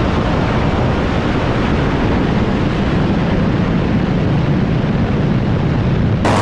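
Drag-racing cars at full throttle, heard as a loud, steady, overloaded roar with wind buffeting the microphone and no clear engine note. It ends abruptly just before six and a half seconds.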